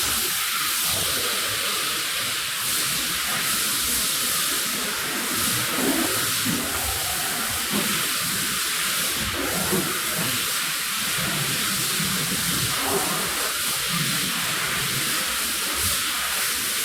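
Steady hiss of a water spray jetting onto a rug during washing, even and unbroken.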